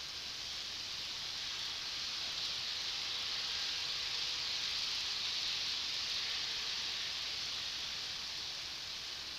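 Model Shinkansen train running on the track: a steady hiss of wheels and motor that swells as it passes by about midway and then fades.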